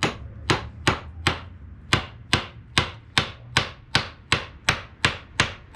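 Hammer driving a large nail into a wooden board, about fifteen even strikes at roughly two and a half a second. The nail goes into a hole made first to ease its way.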